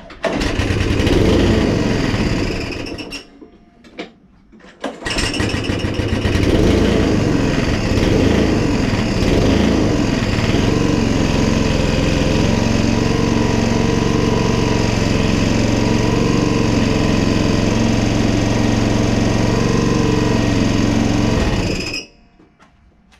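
Sovereign lawnmower's SV150 engine pull-started after its ignition coil and HT lead were replaced to cure a no-spark fault: it catches and runs for about three seconds, dies, then starts again on another pull and runs, settling to a steady speed. It stops abruptly near the end.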